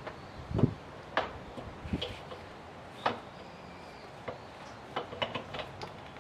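Irregular clicks and knocks of hand work on a car, with a dull thump about half a second in and a quick run of clicks near the end.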